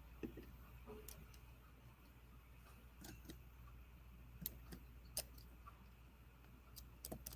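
Faint, irregular clicks, about ten of them, over a steady low electrical hum: someone clicking at a computer while trying to get screen sharing working.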